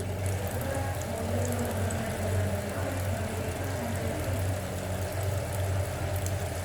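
Steady low hum of a running motor, unchanging throughout.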